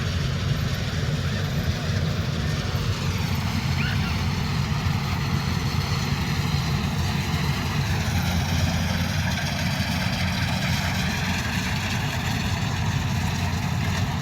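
Combine harvester's diesel engine running steadily under load. A higher mechanical whine above the engine dips in pitch about three seconds in and again near eight seconds.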